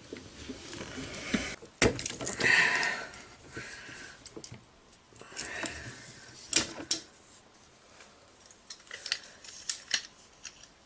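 Hand tools and plumbing parts being handled: scattered clicks, clinks and rustling, with sharp knocks about two seconds in and again around six and a half seconds.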